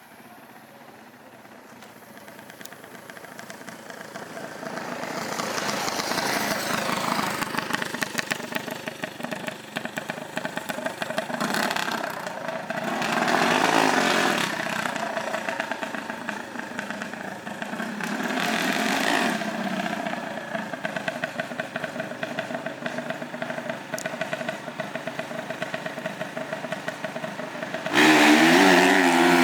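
Small off-road vehicle engines running and revving. The sound grows louder over the first few seconds, then revs rise and fall in several waves. Near the end an engine suddenly becomes much louder, with a wavering rev.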